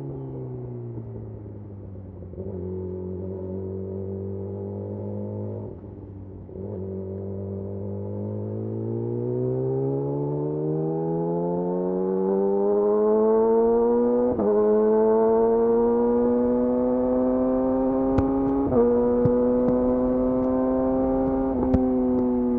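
Yamaha YZF-R6 inline-four engine through a de-catted Akrapovic slip-on exhaust: the revs drop and hold at a low steady note for several seconds, then build smoothly over about five seconds to a higher note that holds, broken briefly about three times.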